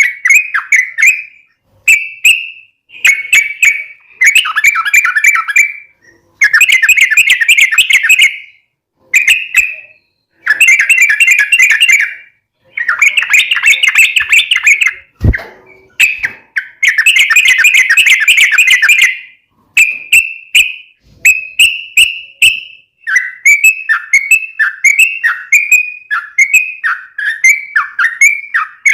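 Yellow-vented bulbul (trucukan) singing in lively bursts of rapid, chattering notes, each run lasting a second or two with short pauses between. Near the end it changes to a string of separate falling notes. There is one sharp click about midway.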